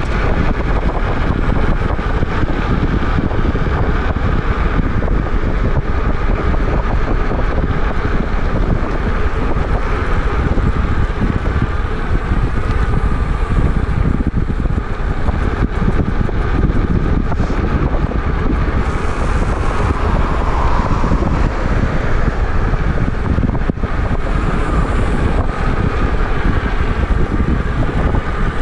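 Wind rushing over the microphone of a moving e-bike, a loud steady rush with no letup.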